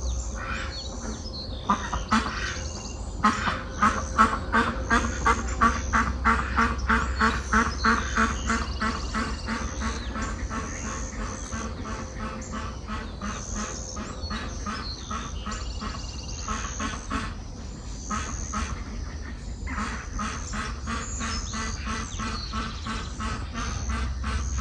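A duck quacking in a long, rapid run of quacks, about two or three a second, that fade as the run goes on; a second, fainter run of quacks comes later. Songbirds sing higher up throughout.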